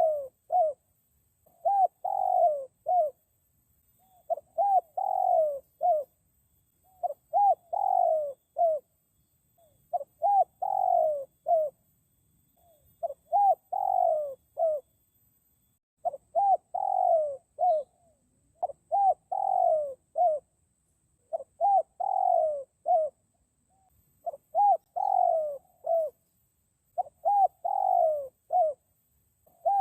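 Spotted dove (dekukur) cooing: the same short phrase of three or four low coos, the middle one longer and sliding down, repeated over and over about every two and a half to three seconds, used as a lure call for the species.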